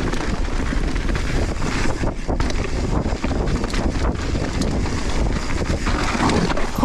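Wind buffeting a GoPro's microphone as a mountain bike rolls fast downhill, with tyre noise on loose volcanic soil and a constant run of small clicks and knocks from the bike.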